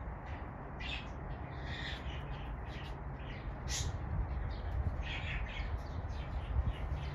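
Birds calling outdoors: short, scattered high calls over a low steady hum.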